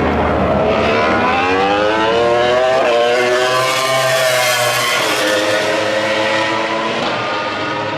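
Racing motorcycle engine at full throttle, its pitch climbing for about three seconds, then dropping as it goes past.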